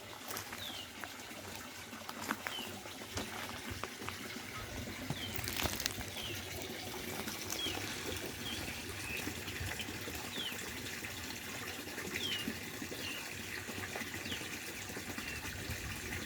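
Water running steadily down a fish ladder, with a bird giving short falling chirps every second or so.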